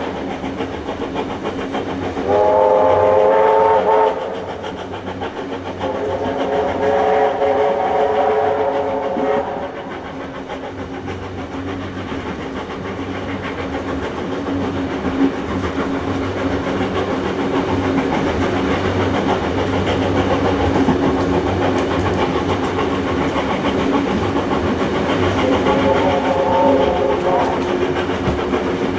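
Steam locomotive whistle sounding three times: a short blast a couple of seconds in, a longer one around six seconds in, and another short one near the end. Under it runs the steady noise of the carriages rolling along the rails.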